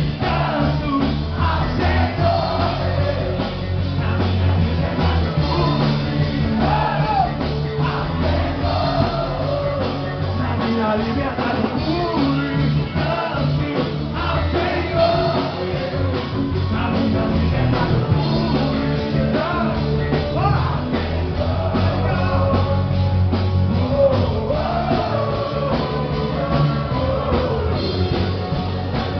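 Live band playing a rock-style worship song, with singing over it.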